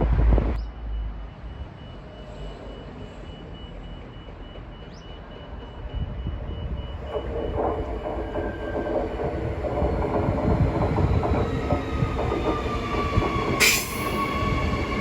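Electric suburban train pulling into the station: a rumble of wheels on rail builds from about six seconds in, with the motors whining and one whine falling steadily in pitch as the train slows. A brief sharp burst comes near the end. Before that, a louder noise cuts off abruptly about half a second in.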